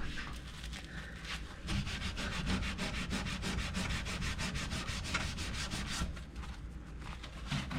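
Sponge scrubbing baked-on grease on a toaster oven, in fast, even back-and-forth strokes, the grime coming off slowly.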